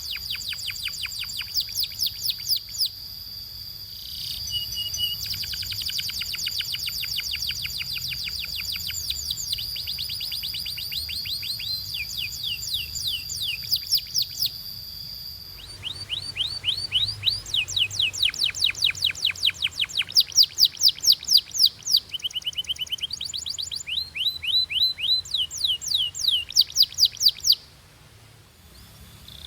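Canary singing a long song of fast, high-pitched trills and rolls, each phrase a rapid run of repeated notes. A steady high note sounds under the song for the first half, then stops. The song breaks off shortly before the end.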